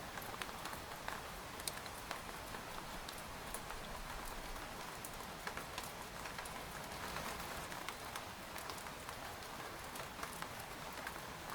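Steady rain pattering on a tent, with many individual drops ticking on the fabric.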